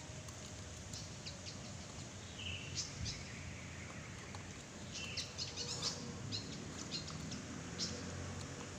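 Small birds chirping in short, high calls over a low, steady outdoor background, with scattered light clicks. The bursts of chirping cluster about two and a half seconds in and again around five to six seconds in.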